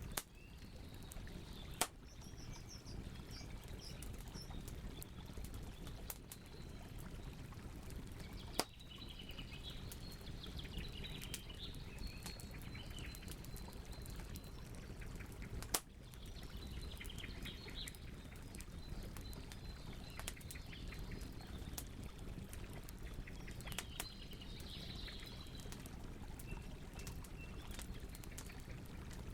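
Wood campfire crackling and hissing steadily, with a few sharp pops standing out above it. Birds chirp in short bursts in the background.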